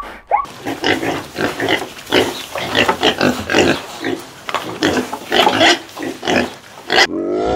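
A group of pigs grunting and squealing, many short overlapping calls several per second. Near the end it cuts to a long, low, steady call of a different animal.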